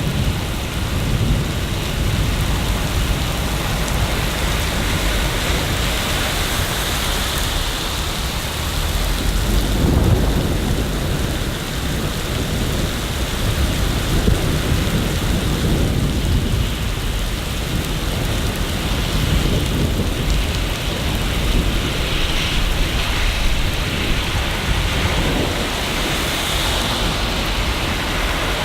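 Steady rain falling in a city, an even hiss of rain on hard surfaces over a low rumble that swells briefly about ten seconds in and again a few seconds later.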